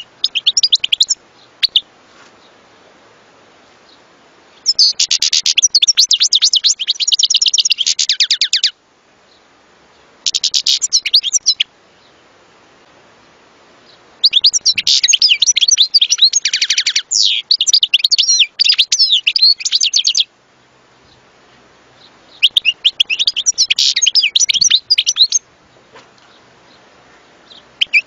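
European goldfinch singing: about five bursts of rapid, high twittering and trilling notes, each lasting one to six seconds, with short pauses between them.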